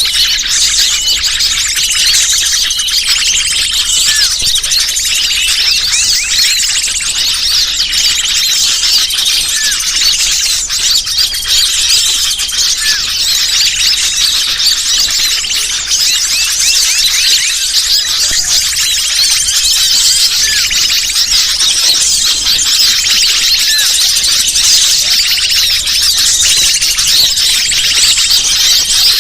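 Dense, unbroken chorus of many small birds chirping and trilling together in high, quick notes: a bird-lure (pikat) recording played to attract wild birds.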